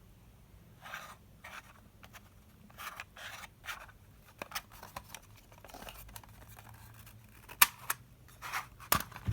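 Unboxing handling noise: short rustles and scrapes of packaging being handled, with a few sharp clicks near the end.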